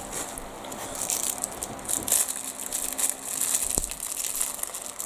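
Plastic packaging crinkling in irregular handfuls as it is handled, with one sharp click a little under four seconds in.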